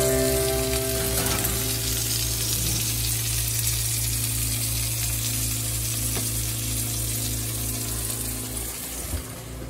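Pork chops sizzling in a hot cast iron skillet, loudest in the first couple of seconds and then fading, over a steady low hum.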